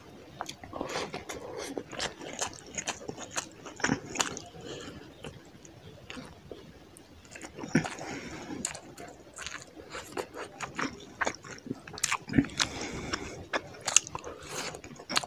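A person chewing mouthfuls of fish curry and rice eaten by hand, with many short, sharp mouth clicks and smacks.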